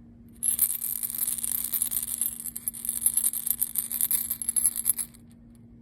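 A dense, high jingling rattle made of many quick clicks, starting about half a second in and stopping about five seconds in.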